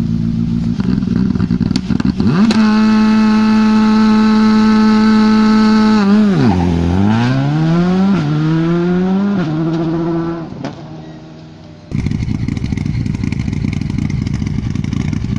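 Rally car engine held flat out at a steady high pitch, then dropping sharply as the car lifts off, and picking up again through two upshifts before fading as the car goes away. About twelve seconds in, the sound cuts abruptly to a different, rougher engine noise.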